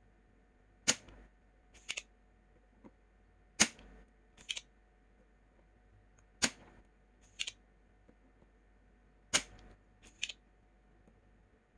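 Sharp clicks in a repeating pattern. A single loud click comes about every three seconds, followed about a second later by a quick double click. A faint steady hum runs underneath.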